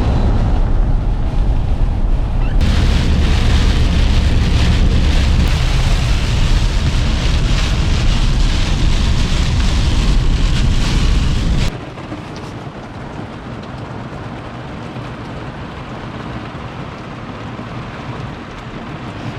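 Heavy rain with a deep rumble under it, then an abrupt change about twelve seconds in to quieter, steady rain.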